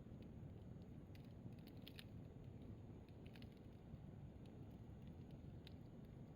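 Firewood burning on a fire stand, crackling faintly: scattered sharp pops over a low steady rumble, the loudest about two seconds in.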